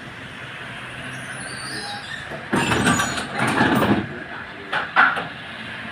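Inside tram 4721 standing at a stop: a steady hum, broken about two and a half seconds in by a loud rough noise lasting over a second, then two short sharp knocks near the end.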